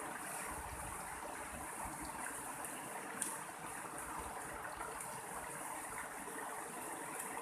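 Mountain stream flowing steadily, an even rush of water with a few faint ticks and one sharper tick about three seconds in.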